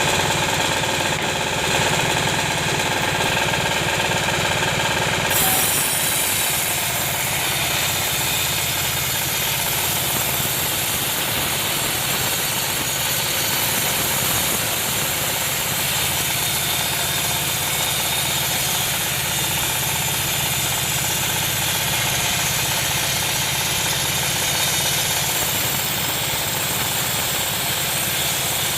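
Sawmill's engine running steadily, with a hiss above it that shifts slightly about five seconds in.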